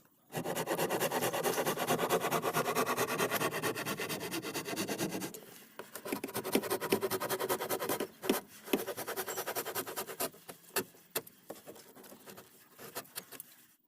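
A hand tool scraping wood in fast continuous strokes for about five seconds, then a scatter of sharp knocks and short scrapes.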